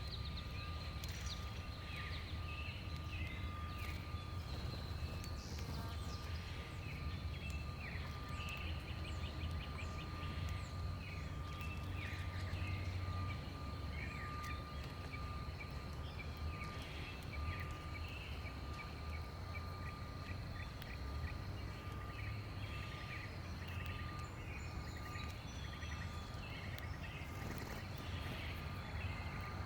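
Backyard ambience with many small birds chirping and twittering in quick short notes throughout, over a steady low rumble and a faint steady high-pitched tone.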